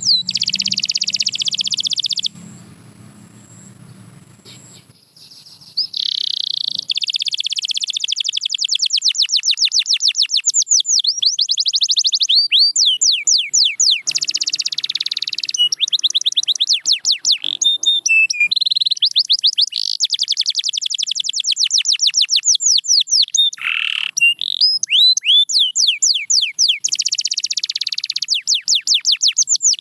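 Domestic canary singing in long, rapid trills of quickly repeated sweeping notes, broken by a quieter pause a couple of seconds in before the song resumes.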